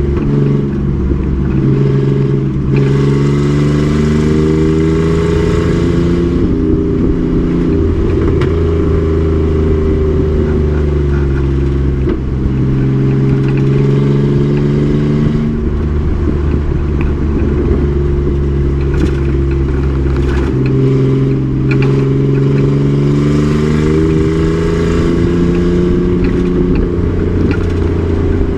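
Race truck's engine under load, its pitch climbing and falling several times as it accelerates and lifts, with a few steady stretches in between.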